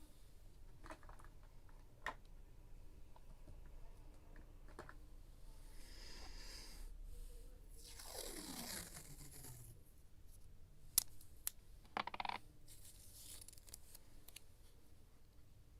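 Scrapbooking paper and supplies being handled: soft rustles and light taps, then one longer tearing stroke about eight seconds in that falls in pitch as it goes. A few sharp clicks follow about eleven and twelve seconds in.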